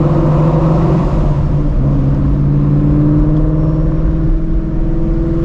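Procharger-supercharged Shelby GT350's 5.2-litre flat-plane-crank V8 running at low, fairly steady revs while driving slowly, with a brief dip in revs about a second in.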